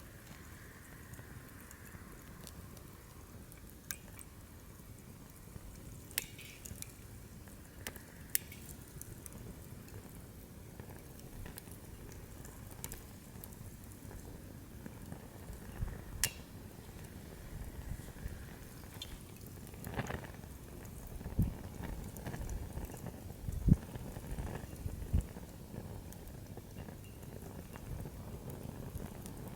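Newly lit wood fire in a fire stand crackling, with scattered sharp pops over a low steady rumble of flame, and a few dull thumps in the second half.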